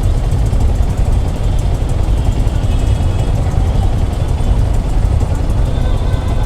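Motorcycle riding in city traffic: a steady low rumble of engine and road noise.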